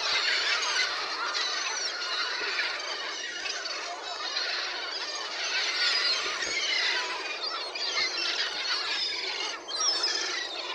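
A crowd of young birds, chicks, cheeping together, many high chirps overlapping without a break at feeding time.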